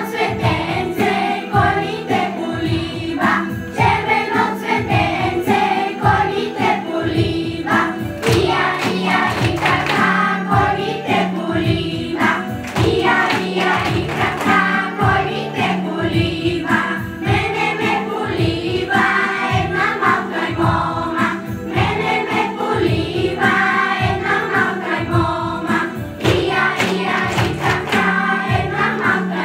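Bulgarian folk music with a group singing over a steady, even beat.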